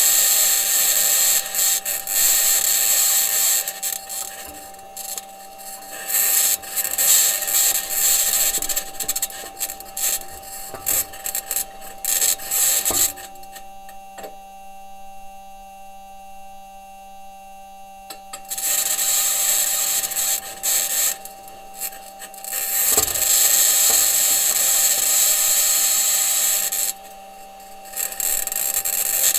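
Perseverance Mars rover driving: its metal wheels and suspension grinding and scraping over rock, with a high-pitched scraping noise. The scraping comes in long stretches with a quieter break about halfway through, over a steady low hum and a steady higher tone.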